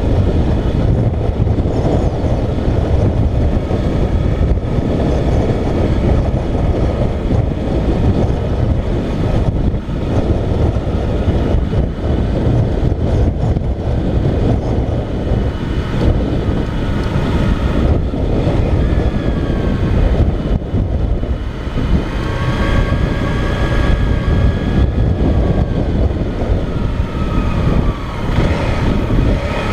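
Motorcycle riding at speed: the engine runs under a heavy, steady low rumble of wind on the helmet-camera microphone. About two-thirds of the way in, the engine's pitch rises and falls a few times.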